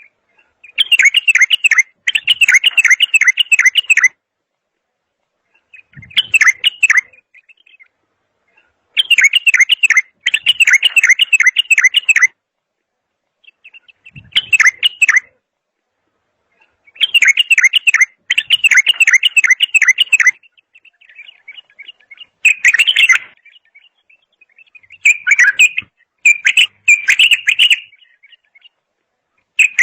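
Songbird singing: rapid, chattering phrases of quick repeated notes about three seconds long, each followed by a shorter burst, recurring at regular intervals of about eight seconds with silence between.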